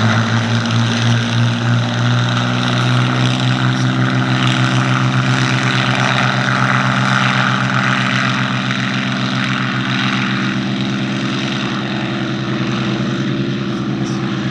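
Two Hispano Buchons' Rolls-Royce Merlin V12 engines at take-off power, a loud, steady propeller drone with a pulsing beat between the two engines. The sound fades slowly after about halfway through as the aircraft move away.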